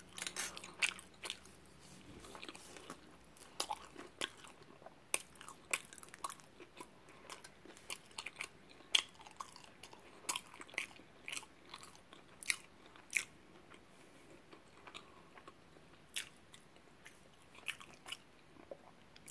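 A person chewing a mouthful of burrito, with irregular small mouth clicks and smacks.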